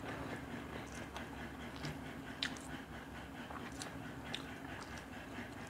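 Close-miked eating sounds: chewing and wet mouth noises of rice and fish curry eaten by hand, with a few short sharp smacks and fingers squishing rice against steel plates.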